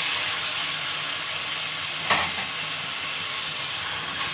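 Raw chicken pieces sizzling in hot oil with fried onion and ginger-garlic paste in a metal wok while a spatula stirs them, with one sharp clack about two seconds in.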